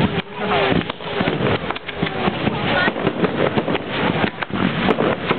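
Fireworks going off in quick, irregular bangs and crackles, with crowd voices underneath. The recording is dull and muffled, with no treble, from the camera's low-quality setting.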